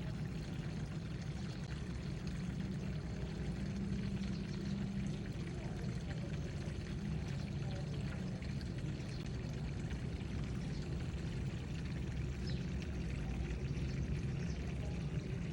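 Water pouring steadily from a garden hose pipe into the garden's watering channels, filling them.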